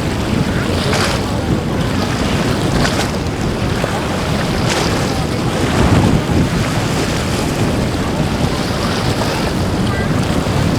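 Wind buffeting the microphone over rushing surf and boat noise in an ocean inlet, with a few short splashes in the first half.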